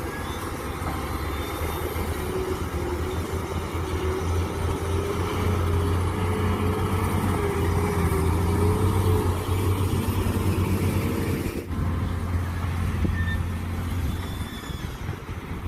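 Mini excavator's engine running steadily under work, with a wavering whine over it for several seconds in the middle and a brief dip about three-quarters of the way through.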